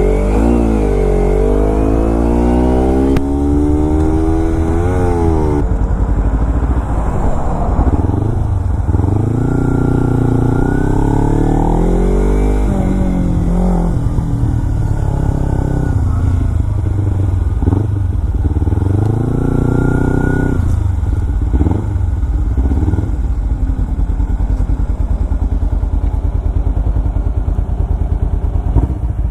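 Motorcycle engine pulling away and accelerating, its pitch climbing and then dropping back with each gear change, over and over. It runs steadier in the later part.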